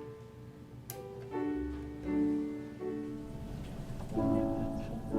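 Slow keyboard music: held chords changing about once a second, with a short click about a second in.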